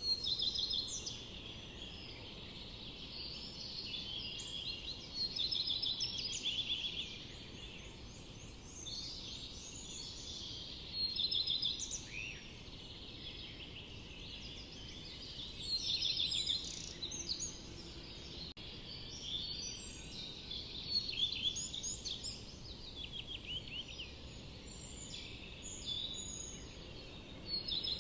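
Songbirds singing in a forest chorus, with short chirping and trilled phrases overlapping and recurring every few seconds over a faint steady background hiss.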